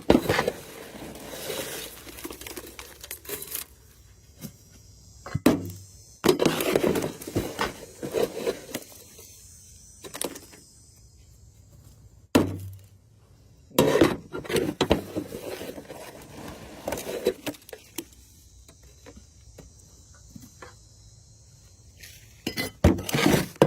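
Debris being scooped and scraped out of a rain gutter: irregular rustling and scraping with clinks and a few sharp knocks, separated by quieter pauses.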